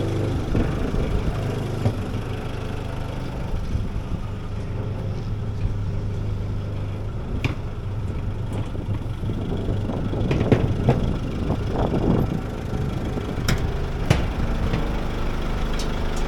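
Backhoe engine running steadily. About ten seconds in the noise rises and turns uneven for a couple of seconds, and a few sharp knocks or clanks come through.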